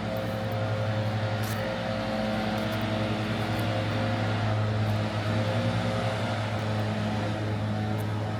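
A steady low motor hum with a fast flutter in it, running without change, with a brief hiss about a second and a half in.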